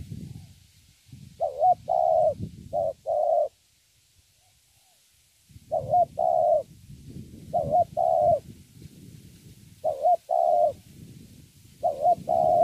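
Young spotted dove cooing its repeated 'thổ' song: five coo phrases, each a short bending note followed by held notes, coming about every two seconds with a longer pause a few seconds in. A low rumble sits under the calls.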